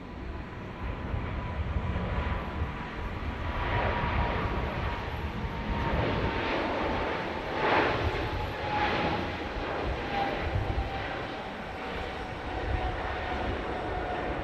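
Jet airliner passing by: the engine noise swells to its loudest about eight seconds in, over a whine that slowly falls in pitch as the aircraft goes past.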